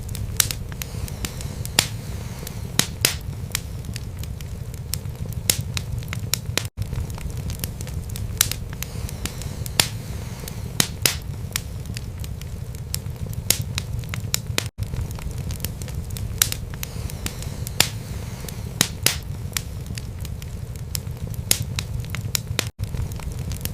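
Wood fire burning in a fireplace: a steady low rumble of flame with frequent sharp, irregular crackles and pops from the burning logs. The sound cuts out for an instant three times, about eight seconds apart.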